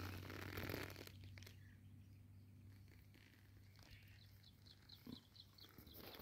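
Near silence, broken by a faint bird call: a quick, even run of about ten short high chirps in the second half.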